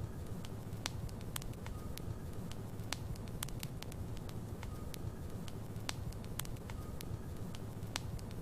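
Wood logs burning in a fireplace: a steady low rumble of flame with frequent sharp, irregular crackles and pops.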